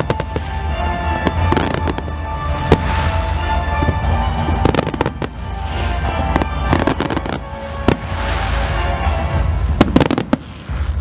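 Aerial firework shells bursting in quick succession: many sharp bangs and booms, with music playing underneath.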